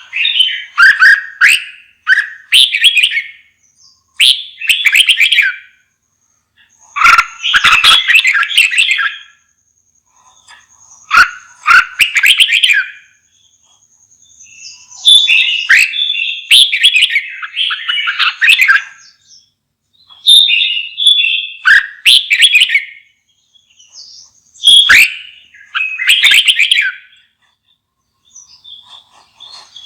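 Red-whiskered bulbul singing: loud, short warbled phrases of a second or two each, repeated over and over with brief pauses between them.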